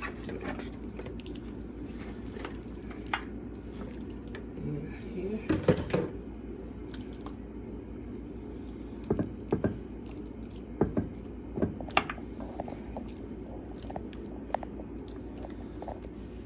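Seasoned raw chicken pieces being moved into a baking bowl: wet, squelchy handling with scattered short knocks and clicks against the bowl, the loudest cluster about six seconds in. A steady low hum runs underneath.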